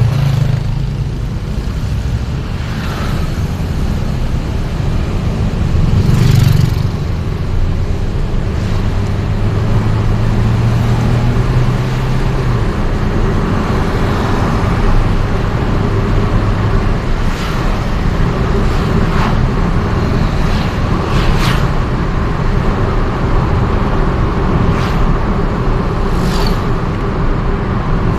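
Steady road and engine noise from a vehicle driving through town traffic, with an engine hum that holds for a few seconds in the first half and several brief sounds of other vehicles passing.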